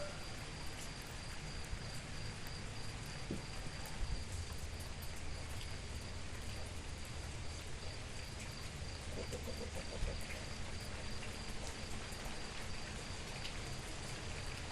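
Steady rain falling, an even hiss with scattered small drop ticks, with a steady high insect trill running through it.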